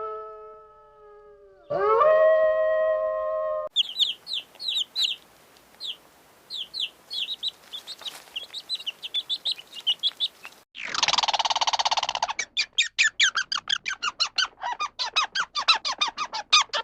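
A pet-sound sequence: a dog's howl fading out, then a second short howl. Small birds chirp in quick runs, followed by a loud harsh squawk and a fast string of chirps.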